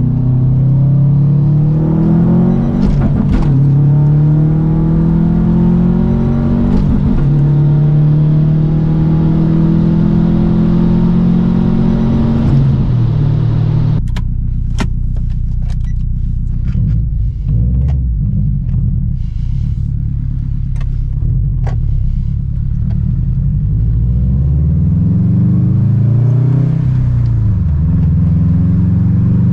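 2008 Subaru Impreza WRX STI's turbocharged flat-four engine through an Invidia catted downpipe and N1 exhaust, accelerating hard with its pitch climbing and dropping back at each of several upshifts. About halfway it eases off to a lower, duller run with scattered sharp clicks, then pulls again near the end.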